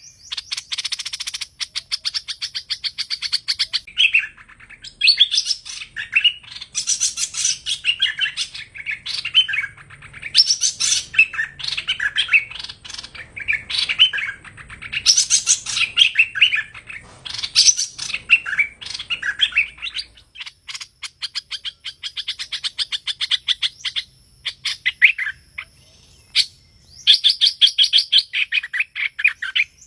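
Song of the bird known in Vietnam as hoành hoạch, the call recording used to lure it into traps: fast, tumbling runs of chirps and whistled notes in phrases a few seconds long, broken by short pauses.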